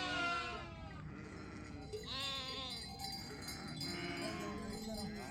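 Sheep bleating: several quavering bleats, one at the start, one about two seconds in and a lower one about four seconds in.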